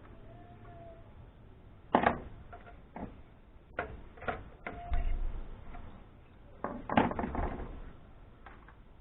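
Clicks and knocks of tools and metal parts being handled while an amplifier is taken apart for scrap. There is a sharp knock about two seconds in, a run of clicks with a dull thud around five seconds, and another clatter around seven seconds.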